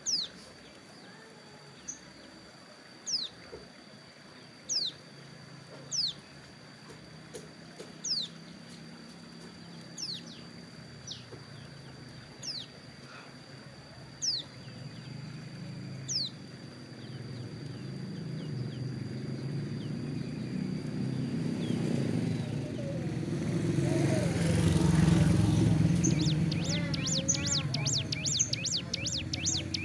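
Ciblek gunung songbird giving single sharp downward-sliding calls every second or two, while moulting its wing feathers. Then a vehicle passes, swelling to its loudest about three-quarters of the way in, and near the end the bird breaks into a fast run of rapid chirps.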